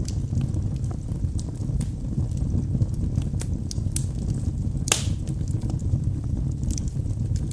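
Logs burning in a fireplace, crackling: scattered sharp pops and snaps over a steady low rumble of the flames, with one louder pop about five seconds in.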